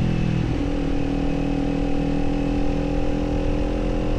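Kawasaki Z400 parallel-twin engine running on the move. Its note shifts briefly about half a second in, then holds a steady pitch.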